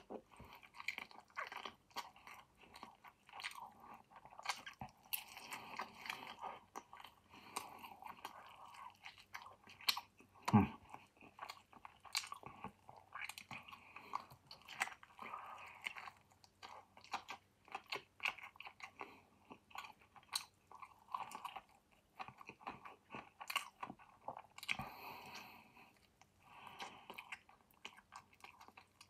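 A person chewing and biting roast chicken, with many small wet clicks and soft crunches. There is one louder knock about ten seconds in.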